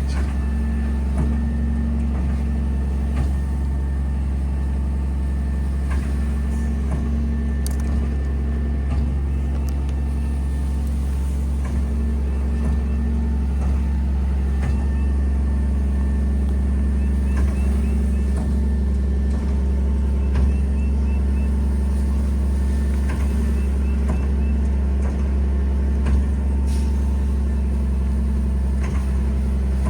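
Diesel semi truck running steadily at a fixed speed while its walking-floor trailer unloads pine mulch, with scattered light knocks over the drone.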